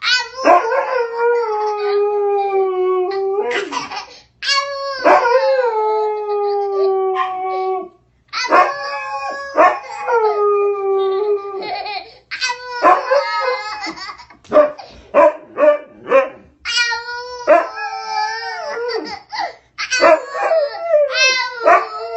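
A dog and a baby howling back and forth: three long, drawn-out howls of about three seconds each, then a run of shorter, broken howls and yips.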